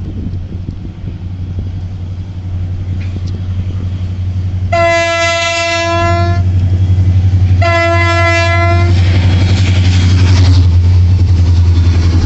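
Freight train locomotive approaching with a low rumble that grows steadily louder. About halfway in it sounds two blasts of its horn, each a single steady note about a second and a half long, and the train's rumble swells loudest near the end.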